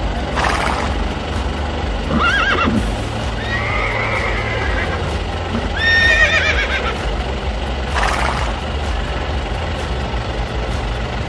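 A horse neighing several times, the longest whinny about six seconds in, with a steady low hum underneath.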